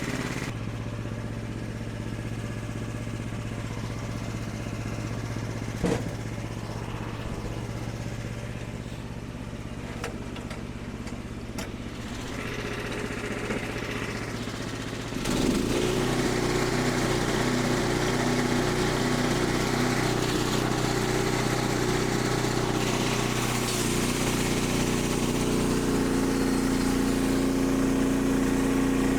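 Portable sawmill's gasoline engine running steadily, with a few sharp knocks in the first half; about fifteen seconds in it steps up to a louder, fuller running sound that holds.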